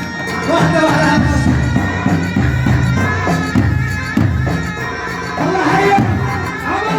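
Middle Eastern folk music, loud and continuous: a reedy wind instrument playing a gliding melody over steady held tones, with a drum beneath.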